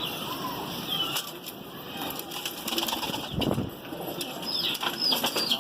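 Pigeons: wing flaps and calls, with a few short high chirps near the end.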